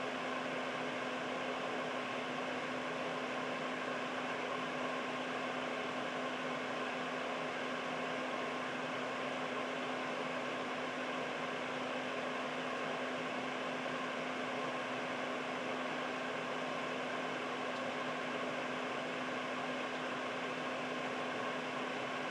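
Air purifier running steadily: an even rush of fan airflow with a constant low hum under it.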